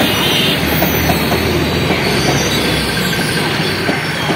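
Indian Railways passenger train passing close by, hauled by an electric locomotive: a steady, loud rumble and rattle of the coaches' wheels running over the track.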